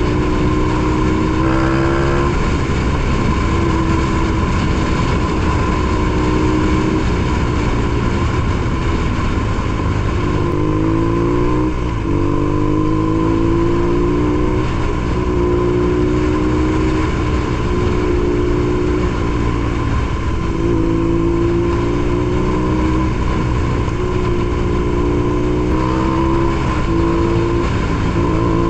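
BMW R nineT Pure's boxer twin running through a ZARD aftermarket exhaust on the move. Its note holds steady, then rises under acceleration several times, dropping back between the rises.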